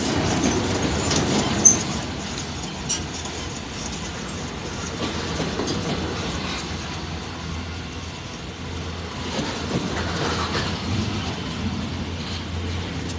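Freight train of pulp wagons rolling past, its wheels clacking on the rails, with a few sharp clicks, the loudest about a second and a half in.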